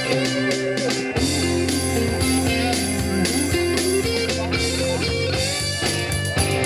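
Live rock band playing: an electric guitar lead line with bending, sliding notes over bass and a steady drum beat.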